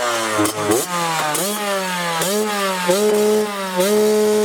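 Honda CR80's two-stroke single-cylinder engine revving as the dirt bike is ridden. Its pitch climbs and drops back several times, then holds steady near the end.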